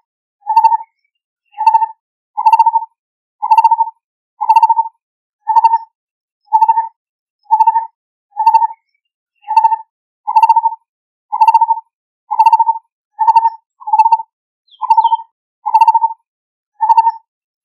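Lineated barbet calling: a single low note repeated steadily, about once a second.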